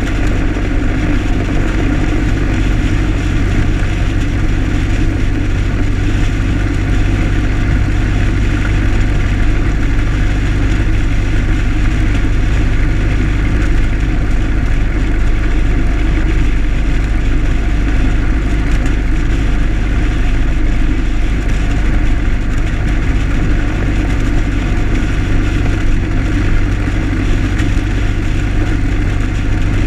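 1925 Ford Model T's four-cylinder side-valve engine running steadily at cruising speed, with a steady rush of road and wind noise.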